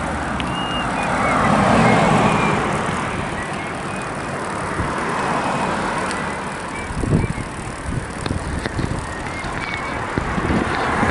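Road traffic noise with a car passing, mixed with wind buffeting the microphone. A few short high chirps come early on, and there are some brief thumps about two thirds of the way through.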